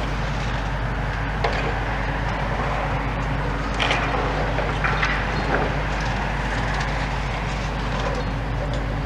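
Demolition excavator's diesel engine running steadily, with a few short cracks and crunches of concrete being broken off about one and a half, four and five seconds in.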